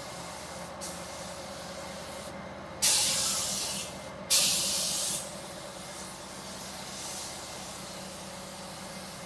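Two short bursts of compressed-air hiss from a pneumatic tool, each about a second long with a sudden start, over a steady background hum.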